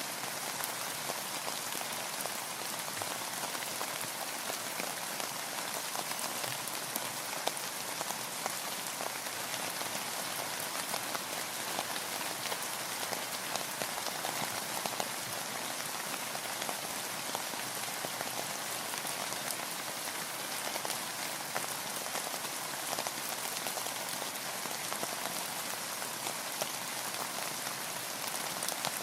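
Steady rain with many small, close drop taps against a continuous hiss.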